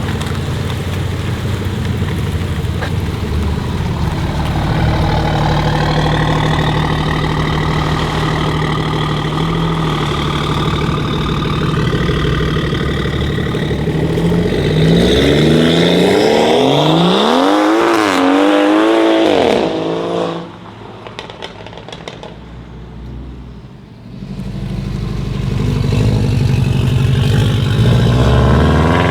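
Tuned Stage 2 BMW 540i engine running steadily, then revving hard with the pitch climbing and wavering for several seconds. It cuts back sharply to a quieter stretch before building up again near the end.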